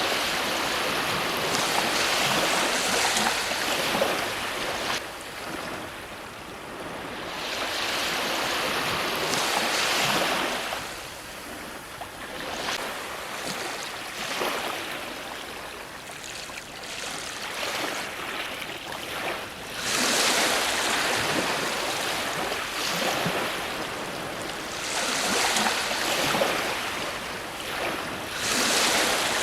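Ocean waves breaking on a shore, a steady wash of surf that swells and fades every few seconds, with louder breakers at the start, about ten seconds in, and about twenty seconds in.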